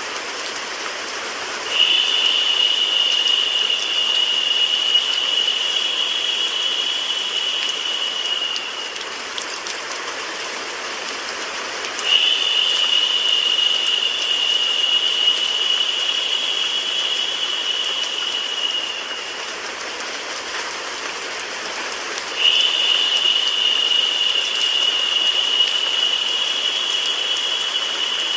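Steady hiss of rain mixed with white noise. Three times, about every ten seconds, a brighter, higher hiss comes in suddenly, holds for about seven seconds and dies away.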